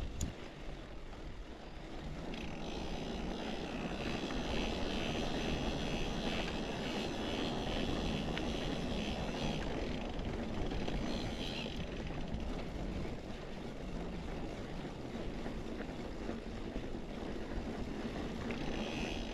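Mountain bike rolling fast down a dirt trail: steady tyre and wind noise, with a high buzz from about two seconds in that fades out around the middle.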